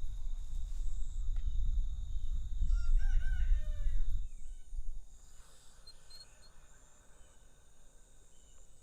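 A rooster crows once, about two and a half seconds in, over a loud low rumble on the microphone that stops about five seconds in. A steady high drone of crickets runs underneath.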